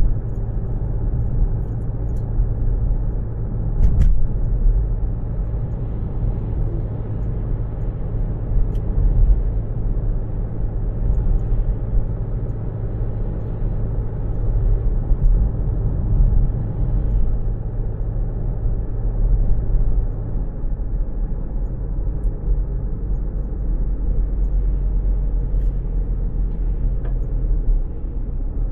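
Car interior noise while driving: a steady low road and engine rumble, muffled by the cabin. A low hum in it drops away about twenty seconds in, and there is a single click about four seconds in.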